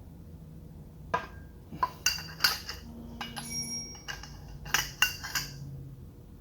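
Metal hand tools and loosened camshaft bolts clinking and clattering as they are handled: irregular sharp clinks, a brief metallic ringing in the middle, and a quick run of clinks near the end.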